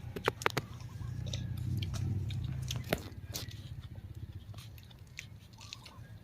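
Close-up crunching of raw vegetables, bitten into and chewed, with a few sharp crunches near the start and about three seconds in.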